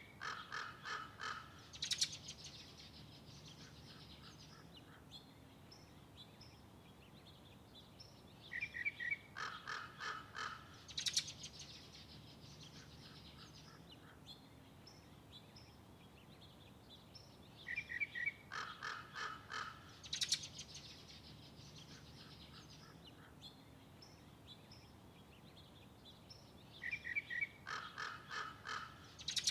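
A bird calling in a short phrase: one note, a quick run of about eight notes, then a sharp rising note. The phrase comes four times, about nine seconds apart, over a faint background.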